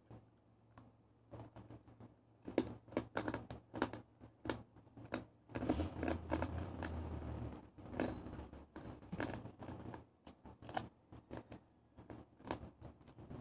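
Close-up chewing of crispy deep-fried pork chicharon bulaklak, a run of irregular crisp crunches and mouth clicks, busiest and loudest about six seconds in.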